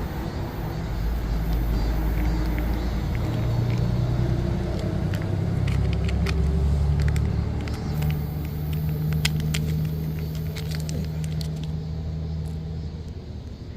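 A motor vehicle's engine running with a low rumble; its pitch shifts a few times. Scattered light clicks come over it.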